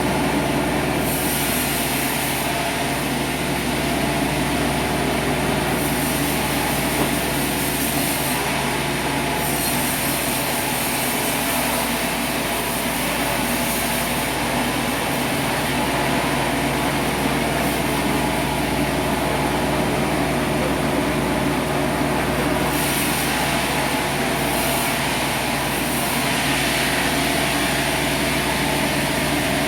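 Sawmill machinery running steadily: an engine drone with a high hiss that comes and goes several times.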